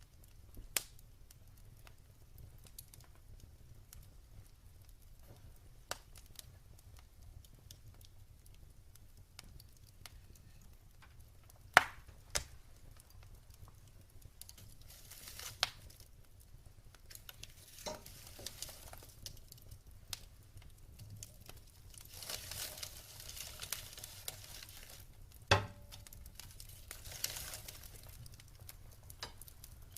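Wood fire in a fireplace crackling: scattered sharp pops and snaps, the loudest about twelve seconds in and again near twenty-five seconds, with short spells of hissing in between, over a low steady hum.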